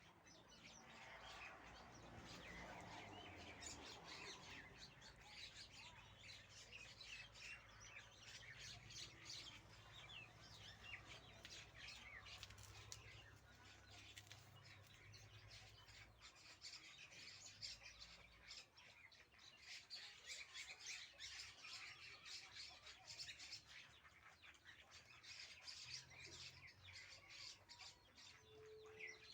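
Baby ring-necked parakeet giving faint, rapid high chirps, over a low hum.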